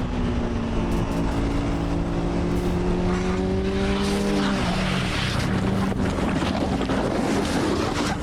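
Honda CBR sport bike's engine running at steady revs, its pitch dropping about four seconds in as a rough rushing noise takes over, during a slide on a bend.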